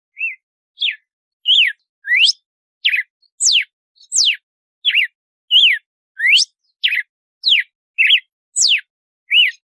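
Red-cowled cardinal (galo-de-campina) singing its 'açoite' song: a steady run of clear whistled notes, about one and a half a second, some sweeping up and some sweeping down. It starts abruptly out of silence just after the start.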